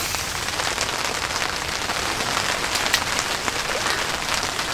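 Steady rain falling on the tent's fabric, heard from inside the tent, with scattered sharper drop taps.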